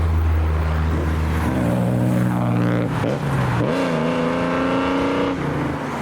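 Car engine pulling away under throttle, rising in pitch twice with a gear change about three seconds in, then easing off near the end.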